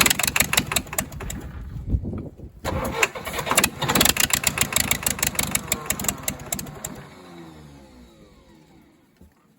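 A 1963 Case 310F bulldozer's diesel engine being cranked over in two runs with a short break between them, then winding down with falling pitch to a stop near the end. The owner suspects air in the fuel lines is keeping it from running properly.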